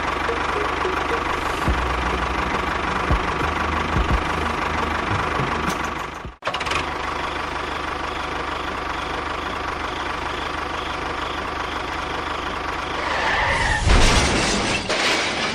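A small motor or engine running steadily with a faint whine. It cuts out suddenly for an instant about six seconds in, then runs on, and grows louder and rougher near the end.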